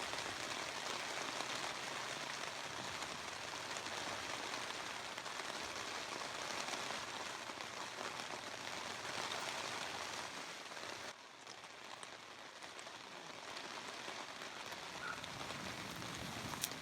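Steady hiss of falling or running water, an even rain-like wash. About eleven seconds in it drops suddenly to a quieter, duller wash that slowly builds again. A sharp click comes near the end.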